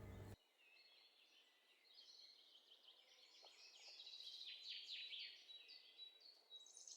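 Faint birds chirping in quick, high, downward-sweeping notes, starting about four seconds in after near silence.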